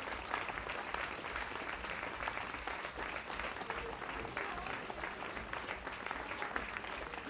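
Audience applauding at the end of a live band's set, steady clapping with some voices in the crowd.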